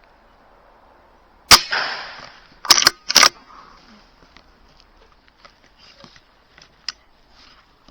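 Air rifle shot about a second and a half in, ringing on briefly in the shed. About a second later come two more loud, sharp clacks close together, then a few faint ticks.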